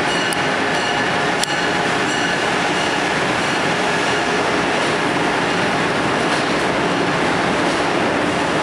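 Amtrak Acela Express trainset moving out, a loud steady rumble of the train on the rails with faint high wheel squeal and a few sharp clicks near the start.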